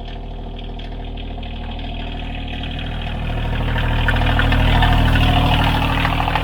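Compact tractor's three-cylinder diesel engine running at a steady pitch, growing louder through the middle.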